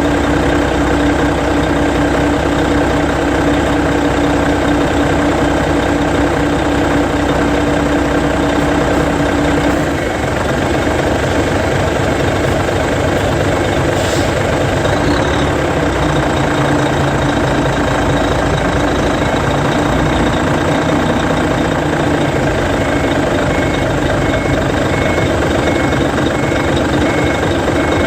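Hino E13C 12.9-litre inline-six diesel engine of a Hino Selega coach, idling steadily. About ten seconds in, its sound changes as the bus begins to move off.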